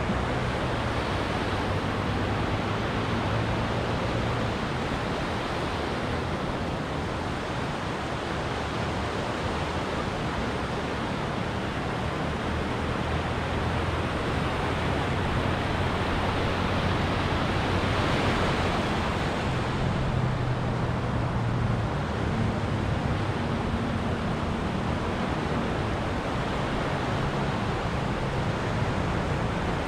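Ocean surf washing onto a beach in a continuous hiss, with one wave swelling slightly louder about two-thirds of the way through.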